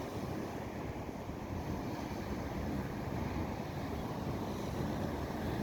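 Wind of a snowstorm blowing across the microphone: a steady rushing noise with a low rumble.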